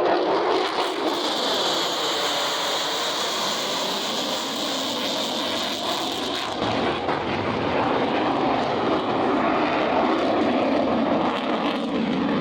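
F-16 Fighting Falcon's single jet engine during a high-speed pass. A falling pitch ends just at the start as it goes by, then a loud, steady jet noise with a hissing high edge for the first six seconds or so, carrying on lower as the jet moves away.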